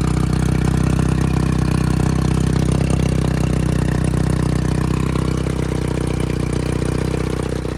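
Outboard motor running steadily at idle while it warms up; its cooling is in question, as its tell-tale is spitting less water than it should.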